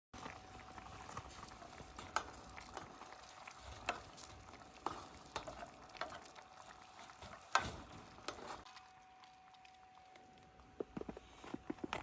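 Cooking over a campfire: a steady sizzle with scattered sharp pops and crackles, and a few quick clicks near the end.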